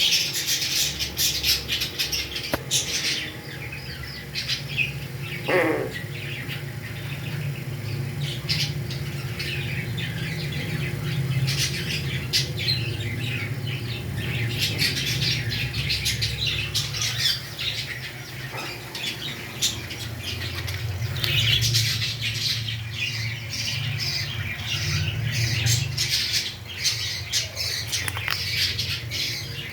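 Pet parrots squawking and chattering in a dense string of short, high calls, one call about five and a half seconds in sliding down in pitch, over a steady low hum.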